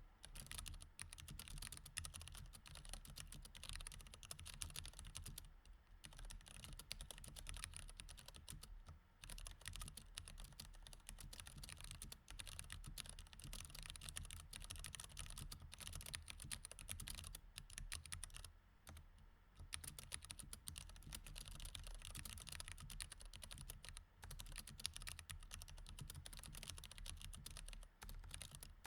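Continuous typing on a mechanical keyboard with Cherry MX Red switches: a fast, even clatter of keystrokes with a few brief pauses, the longest about two-thirds of the way through.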